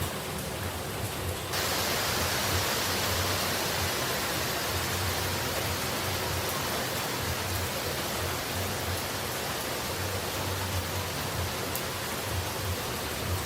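Steady rush of falling water, a dense even hiss. About one and a half seconds in it turns suddenly louder and brighter, then holds steady.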